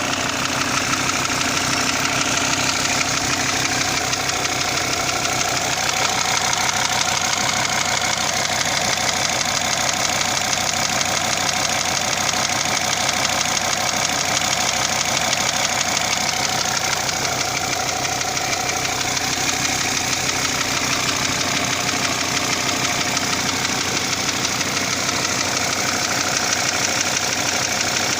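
SsangYong Rexton 2.7 Xdi five-cylinder turbo-diesel engine running steadily with a rapid, regular knock from inside the engine, a knock whose cause the owner does not know.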